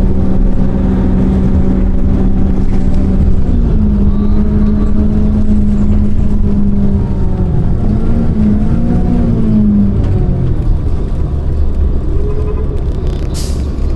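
City bus engine and drivetrain running, heard inside the cabin: a steady low rumble with a humming tone that steps up in pitch a few seconds in, wavers, then drops away near ten seconds as the bus changes speed. A short click near the end.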